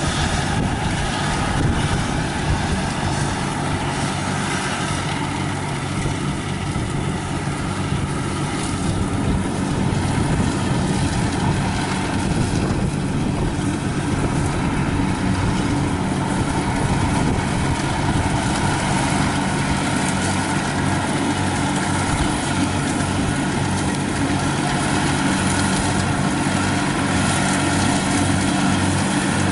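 Kubota DC-70 rice combine harvester running steadily as it works a muddy paddy, a continuous engine and machinery drone with a steady low hum.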